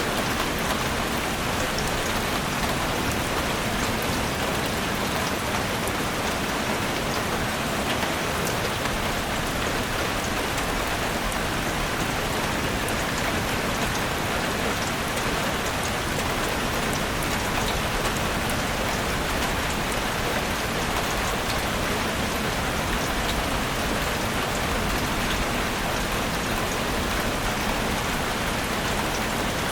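Steady rain falling, an even hiss with scattered drop ticks and no change in intensity.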